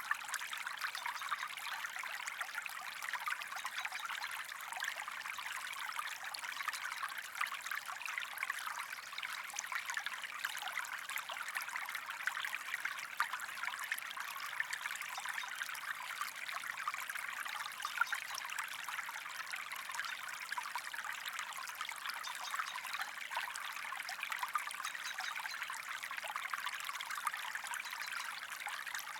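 Small creek running steadily over stones, a continuous trickling, bubbling flow with little low rumble.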